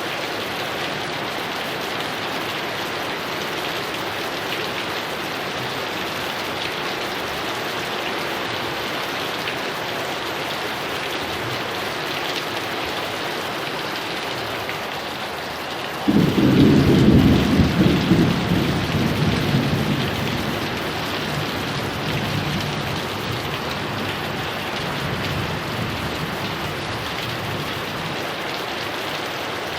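Heavy rain falling steadily. About halfway through, a thunderclap breaks in suddenly and rumbles away over several seconds.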